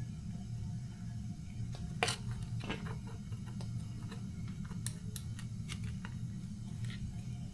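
Scattered light clicks and taps from handling small parts and tools, the sharpest about two seconds in, over a steady low hum.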